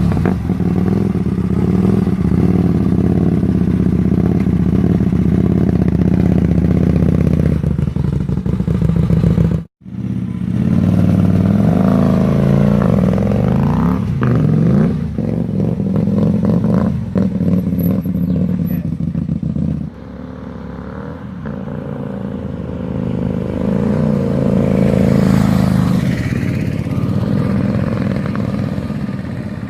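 Hyosung GT250R's V-twin engine through an SC Project replica exhaust, running and being revved up and down. The sound cuts out for a moment about ten seconds in; after about twenty seconds it turns quieter, then swells again.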